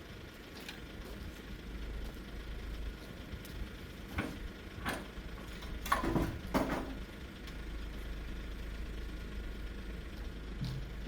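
A vehicle engine idling with a low, steady rumble. Four short knocks come between about four and seven seconds in.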